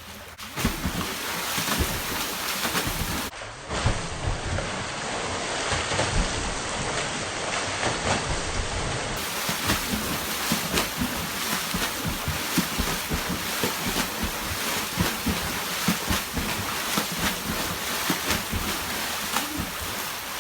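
Water splashing in a swimming pool as people splash each other, a continuous choppy mix of sloshes and sharp slaps on the water surface.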